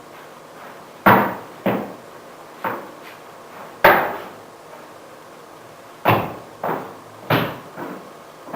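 A run of about eight sharp knocks, irregularly spaced and often in pairs about half a second apart, each ringing out briefly in a room.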